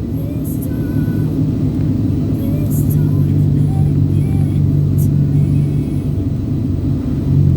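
A car running on the road, with a steady low engine and road drone.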